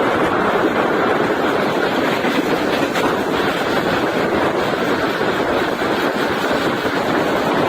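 Indian Railways express passenger train running at speed: a steady rumble and rush of noise from the moving coaches.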